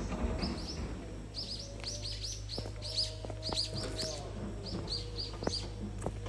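Small birds chirping: a quick run of short, high, falling notes repeated many times, over a steady low hum.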